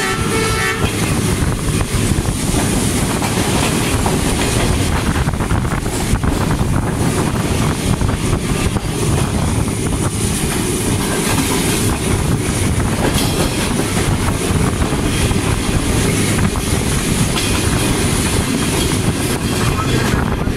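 Passenger train running at speed, heard from beside its ZCU-20 diesel-electric locomotive: a steady loud rumble of wheels on rail with clatter and rushing wind. A horn blast ends just under a second in.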